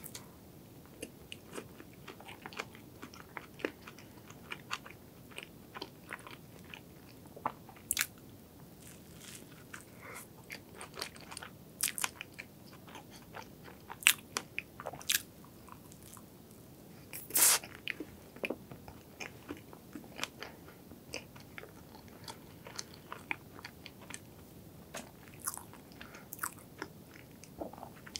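Close-miked eating of a soft strawberry-and-cream white-bread sandwich: steady chewing with many small wet mouth clicks and smacks. A few louder clicks come around the middle.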